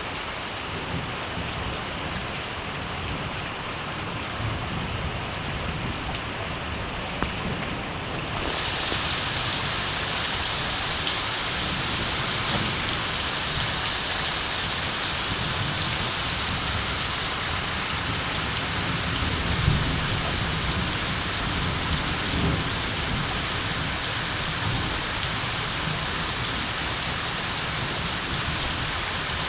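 Steady rain falling, with low rumbles of distant thunder, strongest a little past the middle. About eight seconds in, the rain abruptly turns brighter and a little louder.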